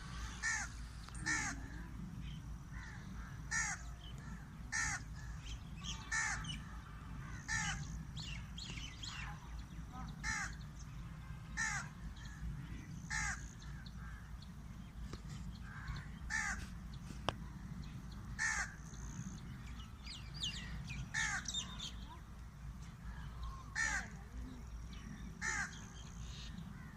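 A crow cawing over and over, short harsh caws about a second or so apart with brief pauses, under a steady low rumble.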